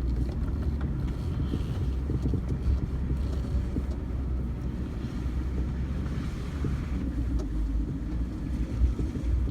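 A vehicle engine running steadily while driving slowly, a continuous low rumble.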